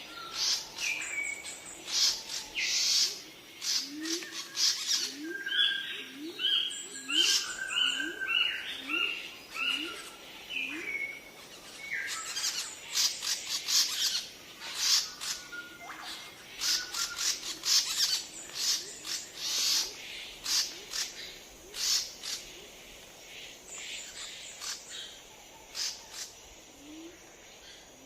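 Several birds chirping and calling in quick, overlapping high notes. A run of short, low, rising calls repeats in the first half.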